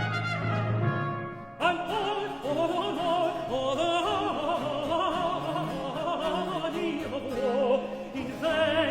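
Baroque orchestral music: brass-led ensemble playing, then a countertenor comes in about one and a half seconds in, singing a long line with vibrato over the accompaniment. The instruments come forward again near the end.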